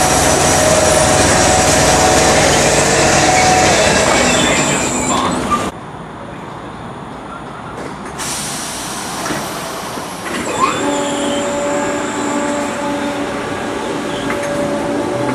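A train passing close by, loud for the first five or so seconds, then the sound drops away suddenly. Later another train comes in with a whine that climbs in pitch near the end.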